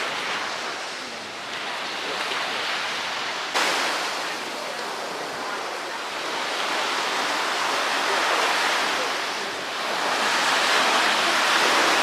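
Ocean surf: a steady rush of waves that swells louder twice, with a sudden jump in loudness about three and a half seconds in.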